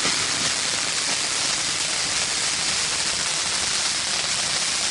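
Shogun 'Blue Me Away' firework fountain burning with a steady hiss.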